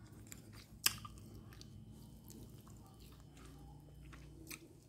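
A person chewing a mouthful of crispy deep-fried climbing perch and rice, with a little crunching and a few sharp clicks, the loudest about a second in.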